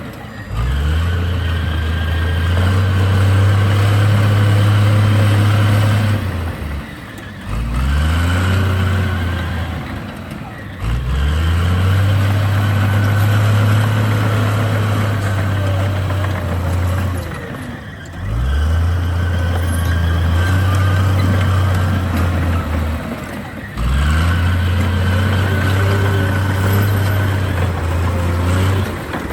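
Komatsu D58 bulldozer's diesel engine revving up and pulling hard for several seconds at a time, then dropping back, about five times over, the rhythm of repeated pushes.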